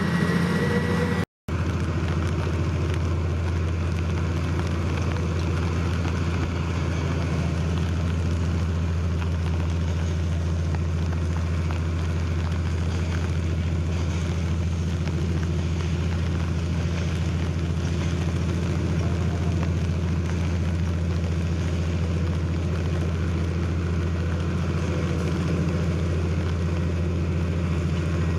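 Heavy diesel engine of earthmoving machinery running steadily with a deep, even drone, cut out for a split second about a second in.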